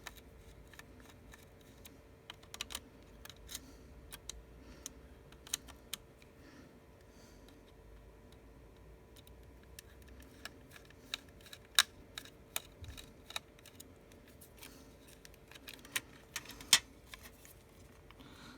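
Irregular light clicks and taps of a small screwdriver and tweezers against the metal frame and parts of an iPhone 6s as a screw is worked out, with a few sharper clicks, over a faint steady hum.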